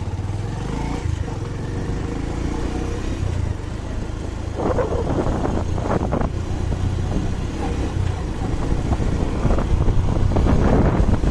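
Motor vehicle engine running steadily while driving along, a low rumble with road and wind noise.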